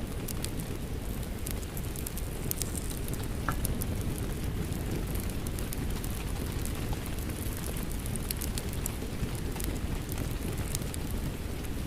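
Wood fire crackling, with frequent sharp pops over a steady hiss of rain.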